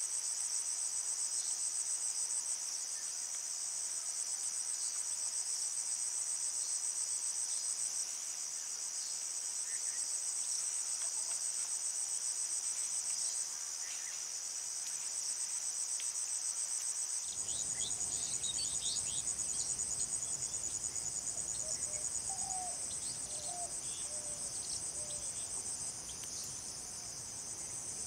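Crickets and other insects trilling in a dense, steady high-pitched chorus. About two-thirds of the way in, a low rushing background noise suddenly joins it.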